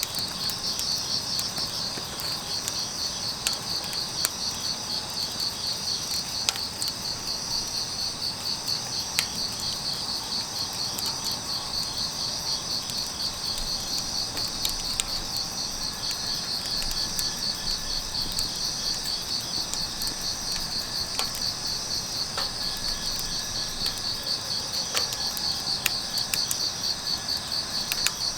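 Grass insects, crickets, chirping in a steady, fast-pulsing high trill, with scattered sharp crackles and pops from burning firewood.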